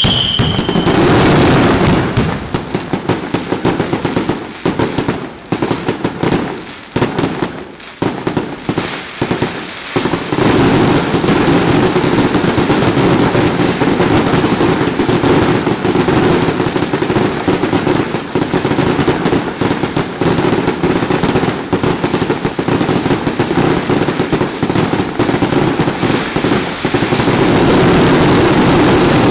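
Daylight fireworks going off as a rapid barrage of bangs, irregular with short lulls for about ten seconds, then a dense, continuous roll of explosions. A whistle fades out in the first second.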